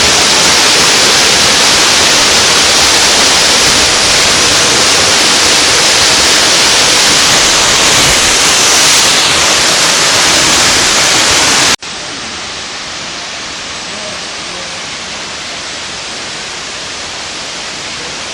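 Waterfall rushing loudly as a steady roar of falling water. About 12 s in it cuts suddenly to a much quieter, steady rush.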